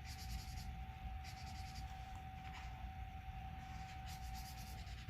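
Felt-tip marker scribbling back and forth on paper while colouring in, in four or five short spells of rapid strokes with brief pauses between them, over a faint steady high hum.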